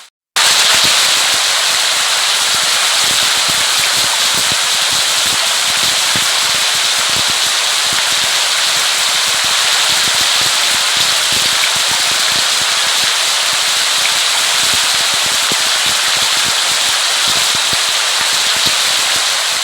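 Steady rain: an even hiss of falling drops with many small sharp ticks through it. It cuts in sharply just after the start and fades out near the end.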